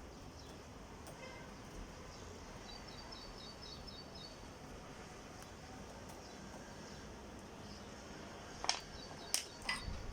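Faint background hiss with a small bird chirping a quick run of short, high paired notes, and again briefly near the end. Near the end come a few short, sharp clicks, the loudest sounds here.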